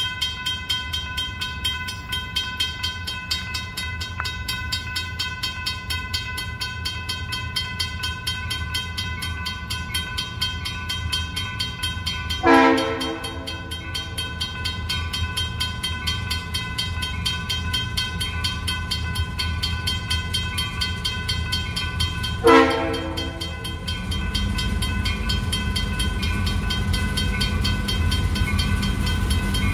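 Railroad crossing bell ringing steadily as a freight train approaches. A locomotive horn sounds two short blasts, one about halfway through and one near the end. The diesel locomotive's low rumble grows louder in the last few seconds as it nears.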